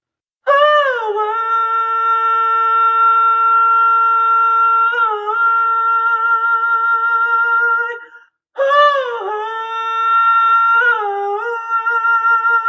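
A singer's voice humming two long held notes without words. Each note opens with a downward swoop in pitch and then holds steady for several seconds. The first cuts off suddenly about eight seconds in, and the second begins just after.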